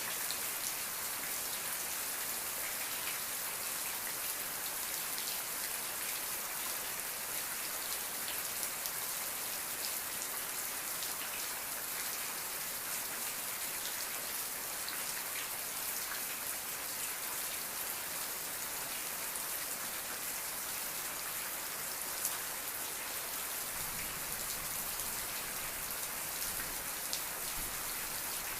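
Steady rain falling and pattering on surfaces, a dense even hiss of countless fine drop ticks.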